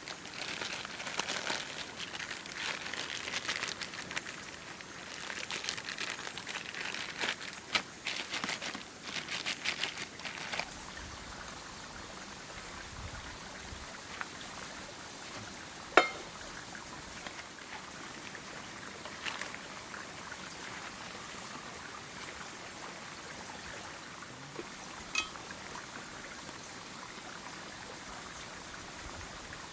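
Food sizzling and crackling on a hot grill. The sizzle is busy with crackles for about the first ten seconds, then settles to a steady hiss, with a sharp click about sixteen seconds in and a fainter one about nine seconds later.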